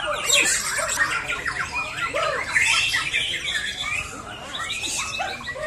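Many white-rumped shamas (murai batu) singing at once: a dense tangle of overlapping whistles, chirps and trills with no break.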